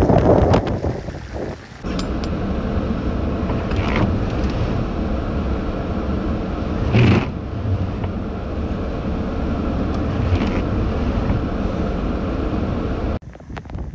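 Gale-force wind and heavy surf in a windstorm, a steady rush of noise with a faint hum underneath. Waves crash or spray hits louder about every three seconds.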